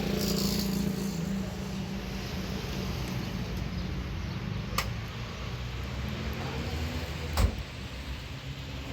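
A car engine running steadily, with a sharp click about five seconds in and a heavier thump, such as a car door shutting, about seven and a half seconds in.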